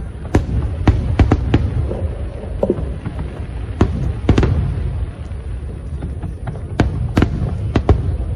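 Fireworks display heard through an old mobile phone's microphone: sharp bangs at irregular intervals, sometimes several within a second, over a continuous low rumble of bursting shells.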